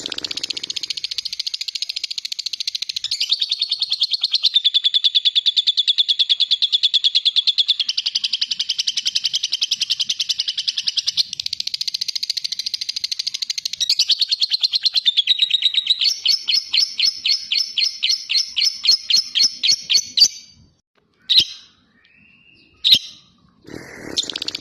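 Lovebird's ngekek: a long, unbroken run of rapid high-pitched chattering that shifts speed several times. About two-thirds of the way through it slows to separate notes, about three or four a second, then stops. Two short chirps follow, and the chatter starts again near the end.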